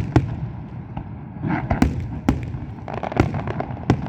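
Fireworks display: a rapid irregular series of sharp bangs and crackles over a continuous low rumble.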